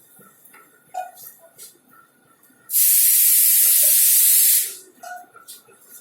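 Compressed air vented from a train's air brake system: a loud hiss that starts abruptly a little under three seconds in and stops about two seconds later.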